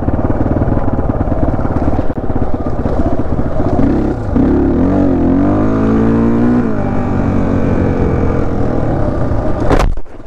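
Honda XR400 dirt bike's single-cylinder four-stroke engine running under way, its pitch rising and falling through the middle as the revs change. A sharp crack comes near the end.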